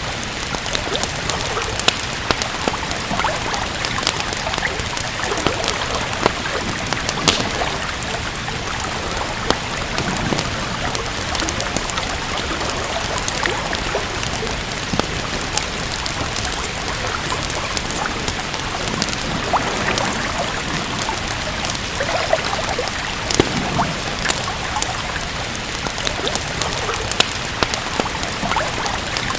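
Steady rain with a wood fire crackling: an even hiss of rain under frequent sharp pops and snaps.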